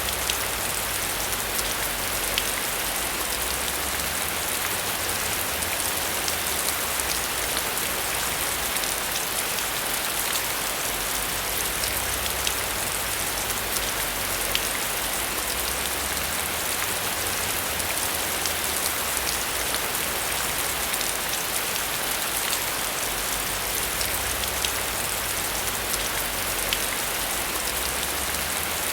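Steady heavy rain: a dense, even hiss with individual drops ticking through it and a low uneven rumble underneath.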